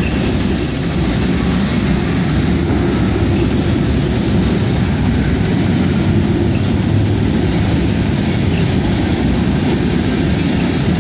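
Freight train of tank cars and covered hopper cars rolling past: a steady heavy rumble of steel wheels on the rails. A faint high squeal fades out in the first second or so.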